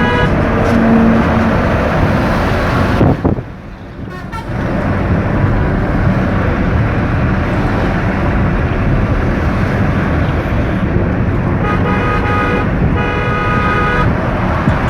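Steady road and engine noise of a car driving on a highway, with two vehicle horn blasts of about a second each near the end. The noise drops away briefly about three seconds in.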